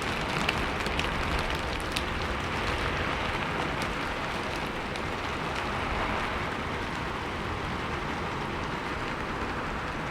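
Steady rain falling, an even hiss with a few separate drops ticking now and then in the first couple of seconds.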